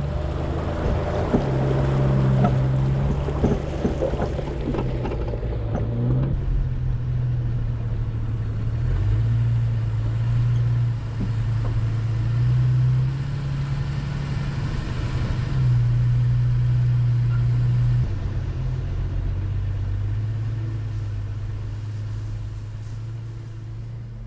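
1999 Jeep Cherokee XJ's engine running as the Jeep drives the trail, its pitch stepping up and down several times. Rough clattering noise rides over it for the first six seconds or so.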